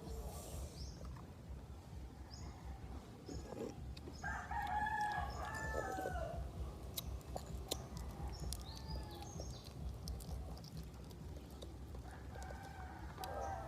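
Rooster crowing twice: one call about four seconds in and another starting near the end, over a steady low rumble.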